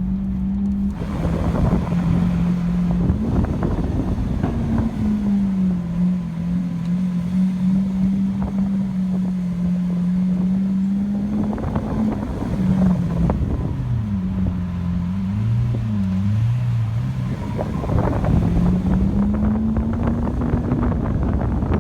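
Lamborghini Aventador's V12 engine running at low revs, its pitch drifting up and down, with rougher, louder bursts about a second in, around twelve seconds in and near the end.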